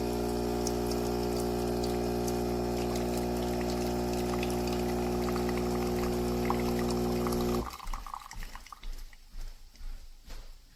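Philips Series 3300 espresso machine's pump running with a steady hum while liquid pours, stopping abruptly about eight seconds in. Soft, irregular pulses follow, about two a second.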